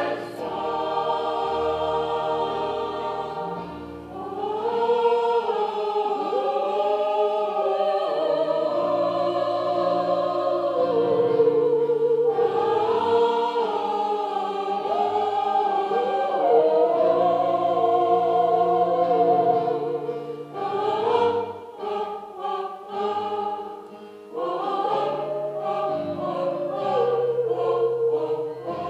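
Gospel choir singing, with long held notes that waver in pitch over steady low notes; about 21 seconds in the singing turns short and choppy for a few seconds before the held notes return.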